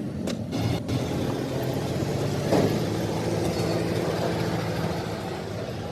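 An engine running steadily, with a few sharp knocks in the first second and a brief louder surge about two and a half seconds in.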